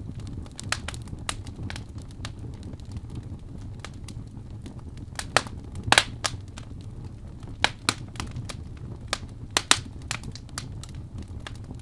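Fire in a fireplace crackling, with irregular sharp pops of varied loudness over a steady low rumble from the flames.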